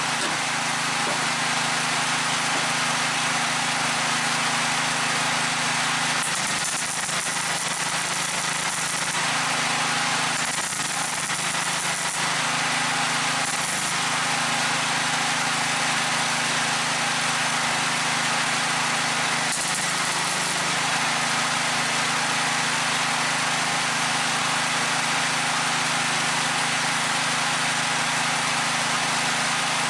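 MIG welder running a weld on steel car bodywork: a steady buzzing hiss over a low hum, faltering briefly a few times in the first half.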